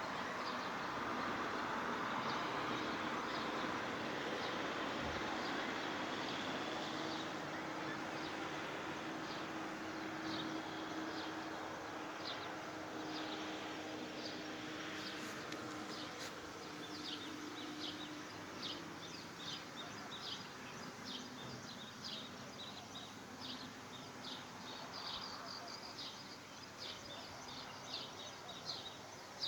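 Open-air ambience: a steady rushing noise that slowly eases, a faint steady hum through the first half, and short high chirps of small birds, coming more often toward the end.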